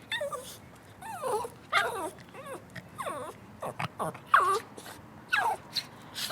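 A dog whimpering and yipping in a string of short, high cries that each fall in pitch, about one or two a second.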